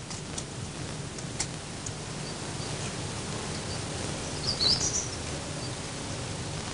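Steady outdoor background noise with a low hum, and a brief burst of high bird chirps about four and a half seconds in, with a few fainter chirps scattered before and after.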